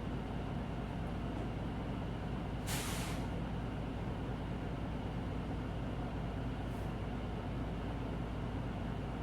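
Cabin running noise of a Hino Blue Ribbon City Hybrid city bus: a steady low drone of engine and road. About three seconds in comes a short burst of air hiss from the bus's air system, and a fainter, briefer one follows near seven seconds.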